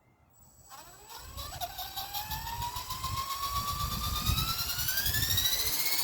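E-Sky Belt CP V2 electric RC helicopter spooling up from rest: its motor and rotor whine starts about a second in and climbs steadily in pitch and loudness, with a pulsing low rumble of rotor wash under it.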